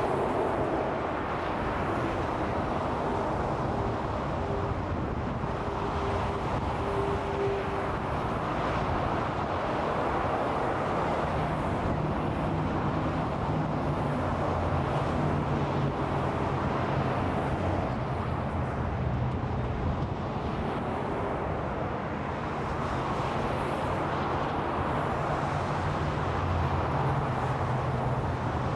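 Steady interstate freeway traffic: a continuous wash of tyre and engine noise from passing vehicles, with a low engine drone coming up in the second half.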